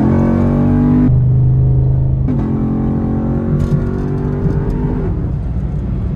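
Chevrolet Camaro SS V8 heard from inside the cabin, accelerating hard on the highway. The engine note rises, breaks about a second in as the automatic changes gear, climbs slowly again, then drops away near the end as the throttle eases off.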